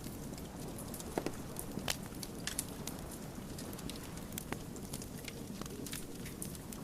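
Wood fire burning, crackling with frequent irregular sharp pops over a steady low rush of flame. A few louder pops come in the first half.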